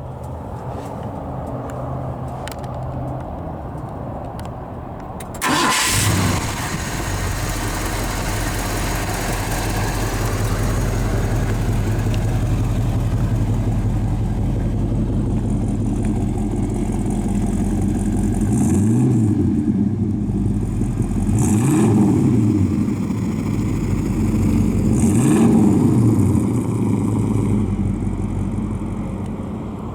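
Ford 428 cubic-inch V8 starting up about five seconds in and settling into a steady idle, then revved three times in the second half, each a brief rise and fall in pitch.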